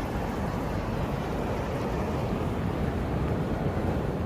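Steady low rumbling noise of wind and sea surf at the shore, with no distinct events.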